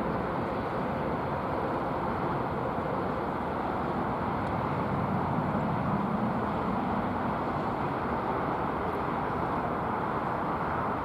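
Steady jet aircraft engine noise, swelling slightly about five seconds in.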